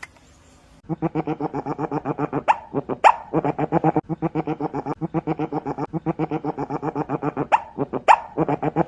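An animal calling in a fast stuttering series of pitched pulses, broken by a few sharp high squeaks.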